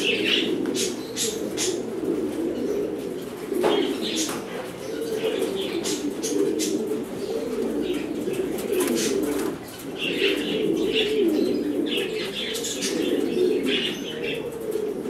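Many domestic pigeons cooing together in a loft, a continuous low cooing chorus, with scattered sharp clicks and bouts of higher chirping in the second half.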